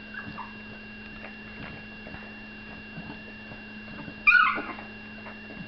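Two-week-old bulldog puppy whimpering: a few faint squeaks near the start, then one short, high, falling whine about four seconds in, over a steady low hum.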